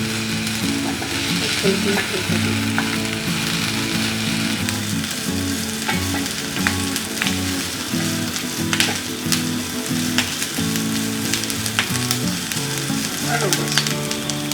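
Bell pepper strips sizzling steadily as they fry in a little oil in a frying pan, stirred with a utensil that clicks and scrapes against the pan now and then.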